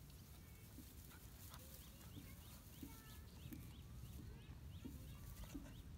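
Faint outdoor ambience: birds chirping in quick repeated short notes over a low steady rumble.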